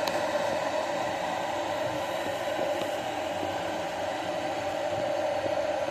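Electric kettle heating water, a steady hiss with a steady mid-pitched hum.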